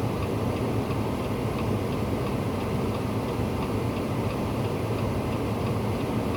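A vehicle engine running steadily as a low rumble, with a faint regular ticking over it, about three ticks a second.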